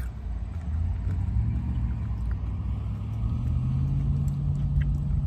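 Car engine running with a low rumble; its pitch rises about a second in and then holds steady.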